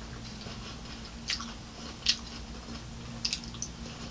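Close-up chewing of a mouthful of lettuce salad, with a few soft crunches about a second, two seconds and three seconds in, over a low steady hum.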